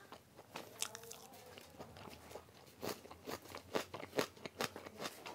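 Close-up chewing of a mouthful of curry and rice eaten by hand, with wet mouth smacks and clicks coming quicker from about halfway through.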